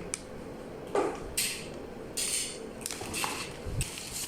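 A new 1.5-litre plastic hand pressure sprayer being handled: a few clicks and several short hissing or rustling bursts, each well under half a second.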